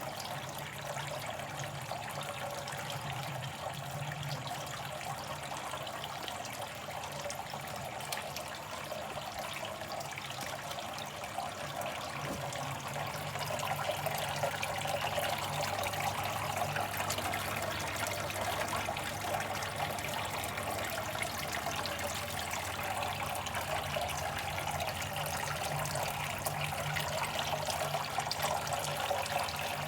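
Water trickling and splashing steadily inside a home-made evaporative air cooler built from an old washing machine, over a steady low motor hum; it grows a little louder about halfway through.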